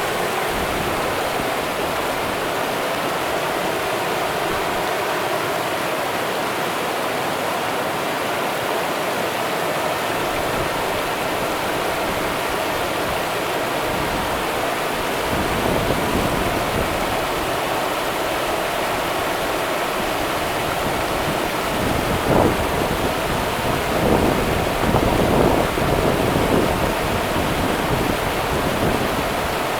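The Rio Grande river running: a steady, even rush of flowing water, with a few brief louder, deeper surges in the second half.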